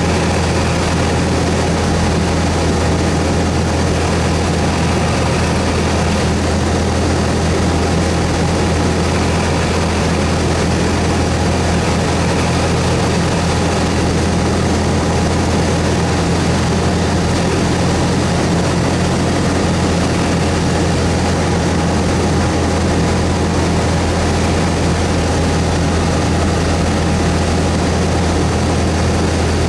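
Cessna 172S's four-cylinder Lycoming piston engine and propeller droning steadily at constant power, with no change in pitch or level.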